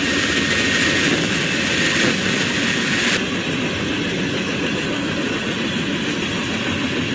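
Norfolk Southern freight train of covered hoppers and tank cars rolling past at speed: a steady rush and rumble of steel wheels on the rails. A thin high steady tone sounds over it for about the first three seconds.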